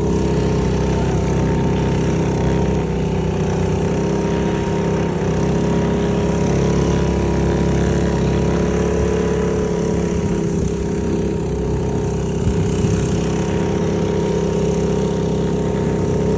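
Small engine of a motosobaka, a compact tracked snow tow, running at a steady speed.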